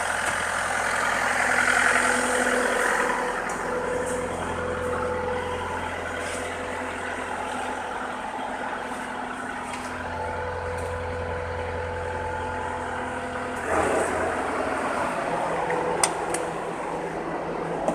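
Heavy diesel engine running steadily at low revs, its hum shifting slightly in load. About three-quarters of the way in it turns louder and rougher, and shortly after there is one sharp click.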